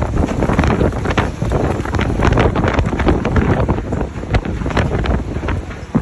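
Strong gusting wind buffeting the microphone: a loud, uneven rumble with crackling pops as the gusts hit.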